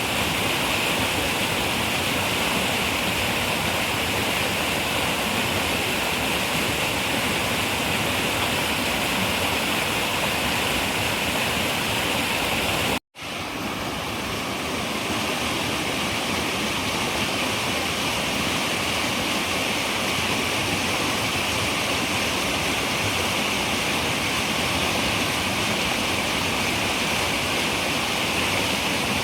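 Steady rushing of a flowing river. About halfway through it cuts out abruptly to silence for a moment, then fades back in.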